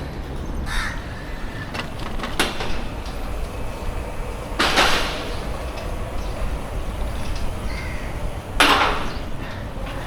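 Steady low wind rumble on the microphone while riding a bicycle, with two harsh, rasping half-second sounds about four seconds apart.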